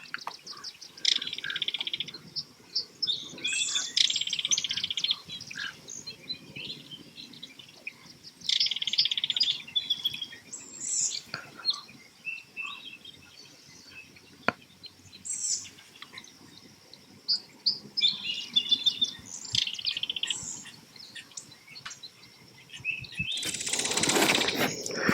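Belted kingfisher giving its dry rattling chatter in several bursts of one to two seconds, with shorter, higher chirps between them. A loud burst of noise comes near the end.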